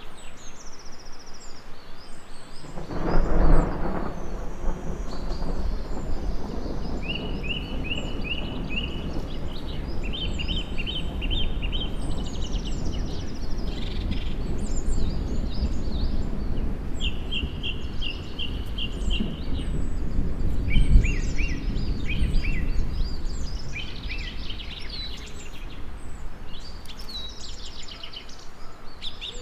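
Thunder rumbling over birdsong: a sudden loud swell a few seconds in, then a long low rolling rumble with a second peak about two-thirds through, fading near the end. Small birds chirp and give short repeated trills throughout.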